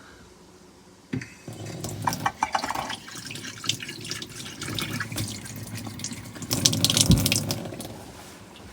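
Water running from a tap into a small sink, with a knock as it starts about a second in and scattered clinks throughout. It is loudest about seven seconds in, then fades.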